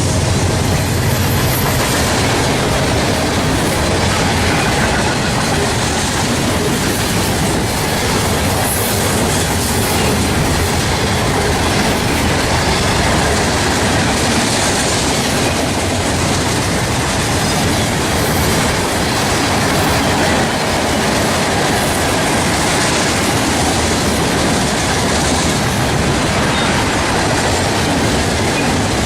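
Norfolk Southern freight train's cars rolling steadily past, a continuous loud noise of wheels on rail.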